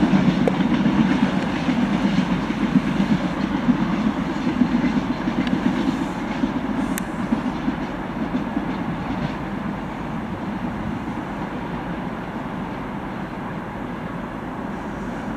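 Train wheels clattering over the rails as a train runs past, the sound slowly fading as it draws away.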